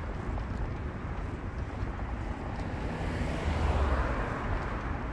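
Street traffic at an intersection: a steady low rumble, with a vehicle passing and swelling loudest about three to four seconds in.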